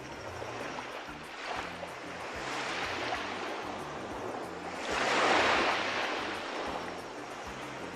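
Sea waves washing onto the shore, with a larger wave breaking about five seconds in.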